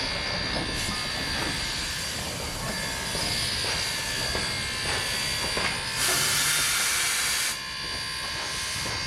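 Steam locomotive No. 3025, a 2-8-2 Mikado, running with its train, with steady high wheel-squeal tones. About six seconds in, a loud hiss of escaping steam lasts about a second and a half.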